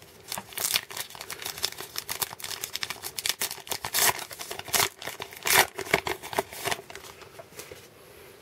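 Baseball card pack wrapper being torn open and crinkled: a quick run of sharp crackles and rips that thins out near the end.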